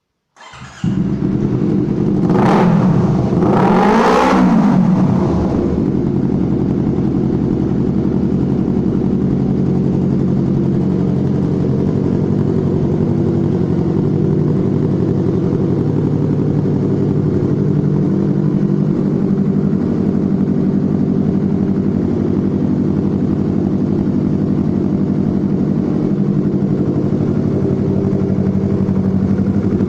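Yamaha MT-25's 250 cc parallel-twin engine breathing through an aftermarket M4 underbelly exhaust: it starts up about half a second in, is blipped twice in quick succession, then settles into a steady idle.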